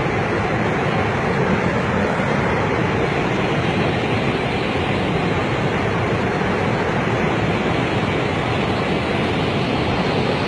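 Flash-flood water rushing down a river channel, a loud, steady, unbroken rush of turbulent water.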